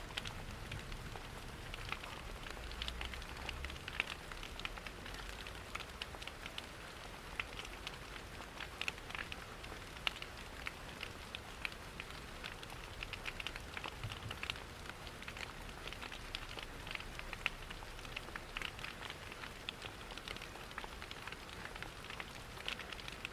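Steady rain with a crackling wood fire: a soft hiss dotted with many small sharp crackles and drops.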